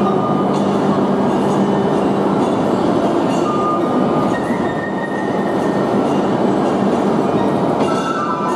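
E5-series Shinkansen train at the platform, a steady loud rumble and hum, with a few thin high squealing tones that come and go, more of them near the end.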